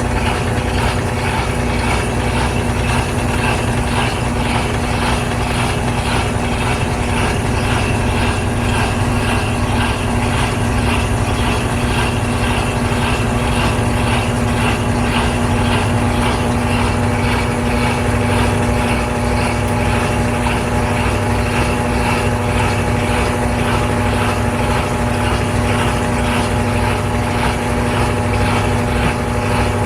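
GE Spacemaker GUD24ESSM1WW laundry center's top-load washer in its final spin, the drum turning steadily at speed. It gives off a constant hum with several even tones above it.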